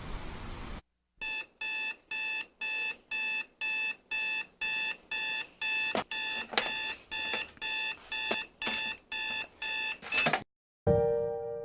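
Electronic alarm clock beeping in quick, even pulses, about two and a half a second, with a few clicks among the beeps, then cutting off suddenly.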